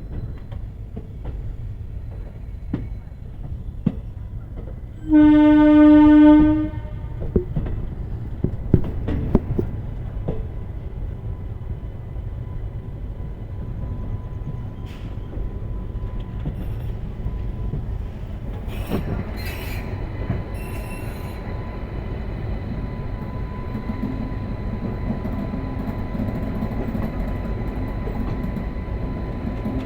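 Railway locomotive horn sounding one blast of about a second and a half, about five seconds in, over the steady rumble of a train; a few sharp clanks follow, and a thin steady whine comes in about halfway through.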